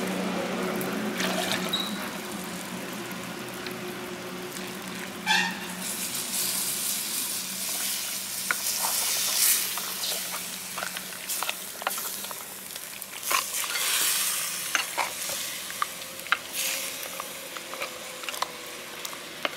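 Mutton curry sizzling in a pot over a wood fire while a steel ladle stirs in the ground masala, with repeated scrapes and knocks of the ladle against the pot.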